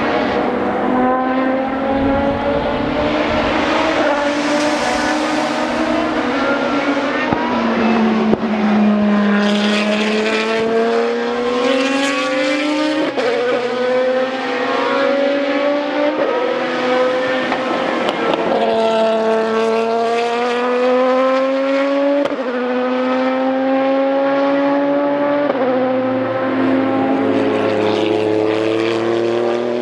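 GT racing car engines at high revs, several at once. The pitch climbs under acceleration and drops suddenly at each upshift, with cars passing.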